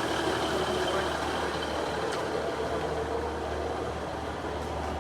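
A vehicle engine running steadily: a low, even hum under general background noise, slowly getting quieter.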